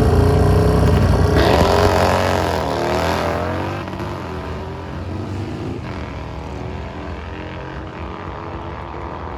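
A drag-racing vehicle's engine at full throttle, loudest at the start, its pitch climbing for about two seconds and dropping near three seconds, then fading as it pulls away down the strip.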